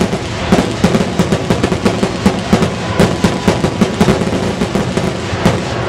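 Fireworks finale barrage: aerial shells bursting in rapid, overlapping bangs, about three or four a second, over a continuous rumble.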